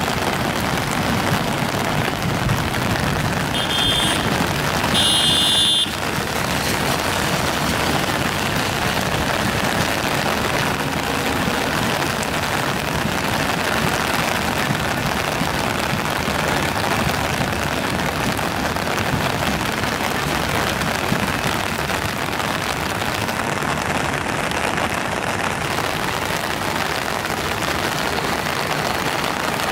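Steady rushing rumble of LHB passenger coaches rolling past on the rails, mixed with falling rain. Two brief high-pitched squeals come about four and five seconds in.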